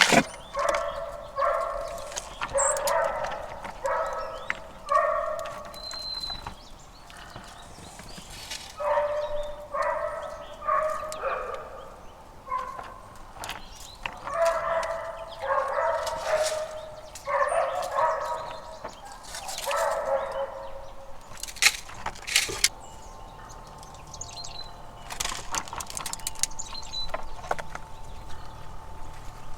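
An animal calling repeatedly, in runs of several half-second calls each, with a few sharp clicks in between.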